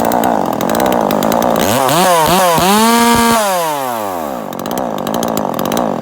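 Two-stroke Husqvarna 136 chainsaw, bored out to 42cc with a big bore kit, cutting through wood under load; a little under two seconds in it breaks free of the cut and revs up high, then the throttle is released and it winds down to idle.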